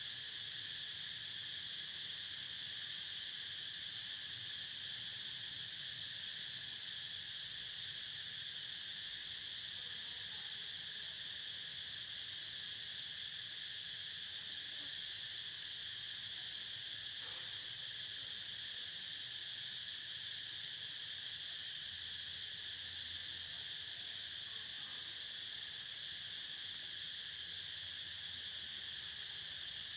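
Steady, unbroken chorus of insects, a high-pitched continuous shrill that holds level throughout.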